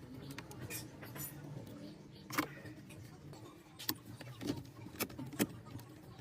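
Scattered sharp clicks and knocks, about seven, irregularly spaced, over a low steady hum.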